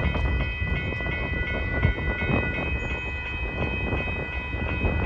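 Grade-crossing warning bell ringing steadily, about two and a half strokes a second, over the low rumble of a freight train at the crossing.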